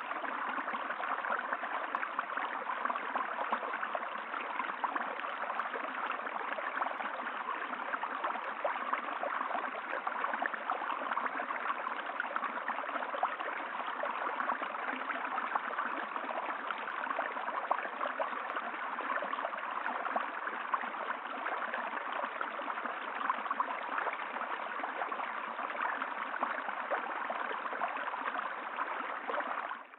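Running water, like a stream, flowing steadily and evenly.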